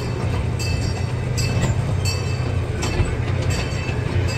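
Small park train's open passenger car rolling along its track: a steady low rumble with a click about every second as the wheels pass over rail joints.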